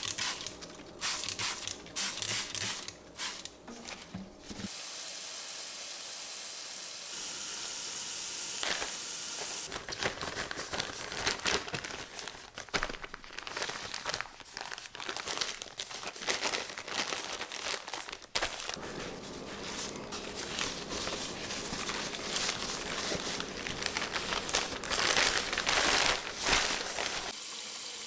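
Crinkling and rustling of packaging being handled, with scattered sharp clicks and knocks.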